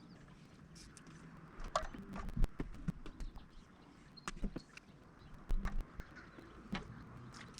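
Irregular light knocks and clicks, scattered and uneven, the loudest about two and a half seconds in, over a faint low background hum.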